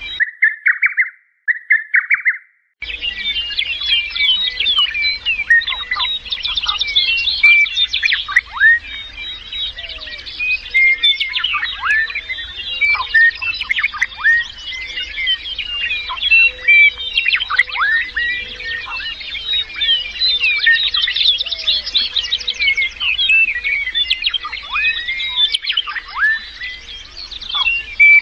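A dense chorus of many birds chirping and calling at once, full of quick falling notes. Two short calls open it, then a brief gap, and the chorus sets in about three seconds in.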